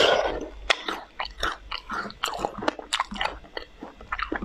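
Biting into and chewing a clump of ice-coated blueberries close to the microphone: a loud crunch at the start, then many sharp crackling clicks as the ice and berries are chewed.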